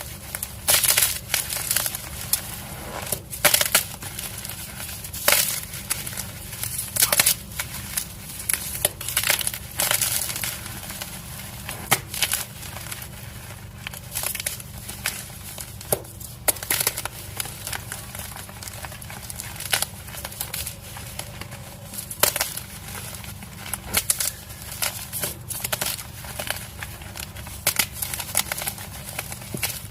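Dyed gym-chalk blocks being crushed: dense, irregular crunching and crumbling, with a louder sharp crack every couple of seconds.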